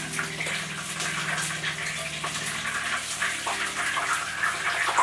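Pecan-tempura battered chicken wings frying in shallow hot oil in a skillet: a steady sizzle full of spitting pops and crackles, over a steady low hum.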